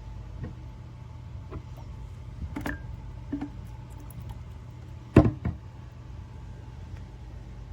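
A few light clicks and knocks, then a loud double clack about five seconds in, over a steady low hum.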